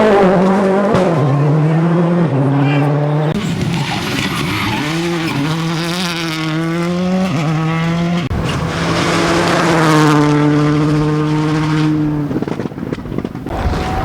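Competition car engines revving hard under load, the pitch climbing and then stepping down with gear changes, in several clips cut abruptly one after another.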